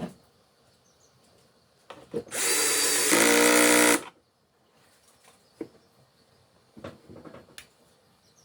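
A power tool running in one burst of about a second and a half, with a steady pitched hum in its second half, amid a few scattered knocks.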